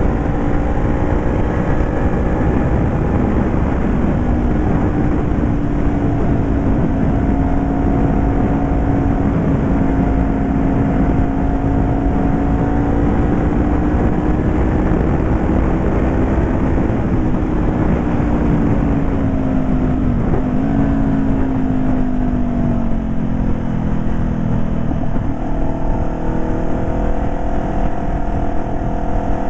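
Honda CBR500R parallel-twin engine running steadily through an exhaust with its baffle removed, with a little wind noise. Its note rises slowly, then falls off about twenty seconds in and again a few seconds later.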